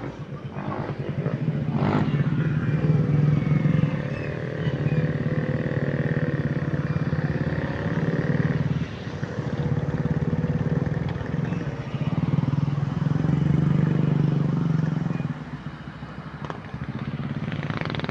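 A motor vehicle engine runs steadily under outdoor road noise, dipping briefly twice.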